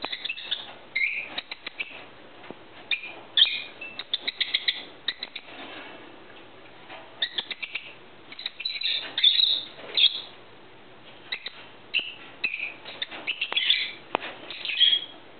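Small birds chirping in repeated short bursts, with a few faint clicks.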